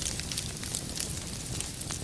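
Wood fire burning with a steady low rumble and frequent irregular crackles and pops of firewood, one sharper pop near the end.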